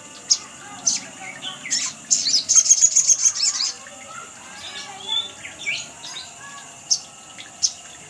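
Sogon (sogok ontong) bird calling: sharp, high single chips and a rapid high trill about two seconds in, played as a lure call to set other birds singing.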